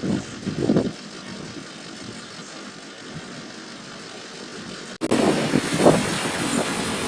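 Street traffic with a taxibus (minibus) engine passing, uneven swells of noise over a steady rumble. An abrupt cut about five seconds in, after which it is louder.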